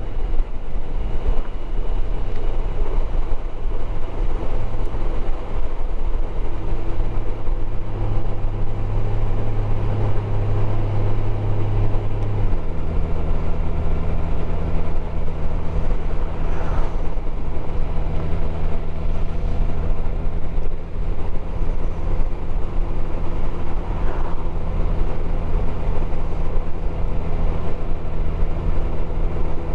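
Motorcycle engine running steadily at road speed, with wind and road noise. About twelve seconds in the engine note drops slightly in pitch and settles at the new note.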